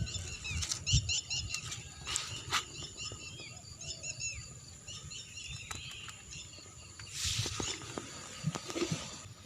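Small birds chirping in quick runs of short high notes, with scattered rustles and knocks and a brief burst of rustling noise about seven seconds in.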